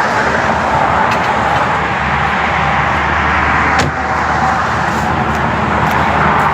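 Steady road and engine noise of a car being driven, heard from inside.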